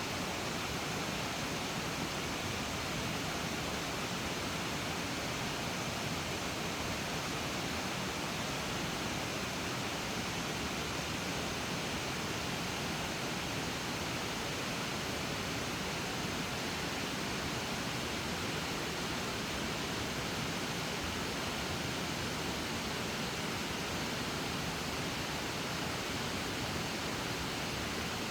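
Steady, even rushing noise with no distinct events, like water or wind.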